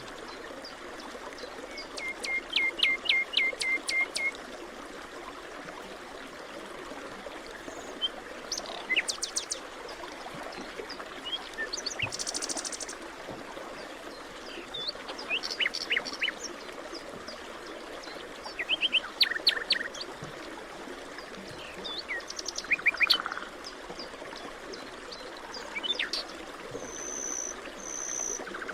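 Several forest birds calling and singing at intervals: quick series of chirps, short trills and a brief buzzy call, over a steady background rush.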